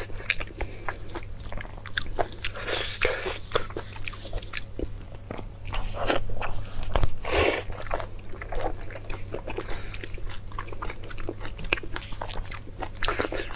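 Close-miked eating of blood sausage: bites and chewing mouth sounds, many irregular smacks and clicks, heaviest about six to seven seconds in, over a steady low hum.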